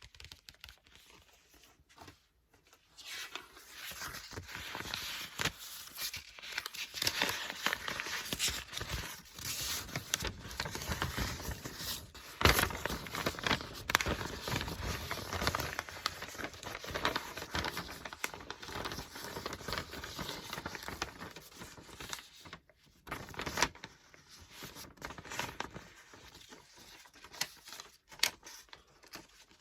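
Paper book pages being turned and flipped close to the microphone: a dense papery rustle full of crisp crackles. It starts about three seconds in, has its loudest snap about halfway, and thins out near the end.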